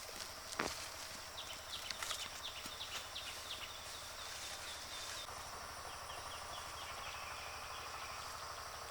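Outdoor rural ambience: a steady high insect drone with runs of short, quick chirps, and a sharp click about half a second in.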